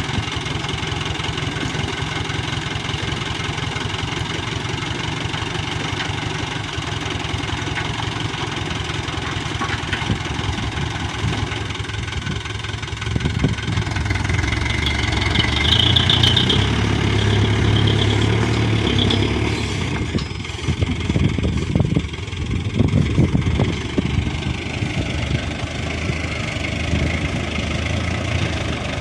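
Hino Dutro dump truck's diesel engine idling steadily, then running harder for several seconds past the middle, followed by a series of irregular knocks and thuds before settling back to a steady idle.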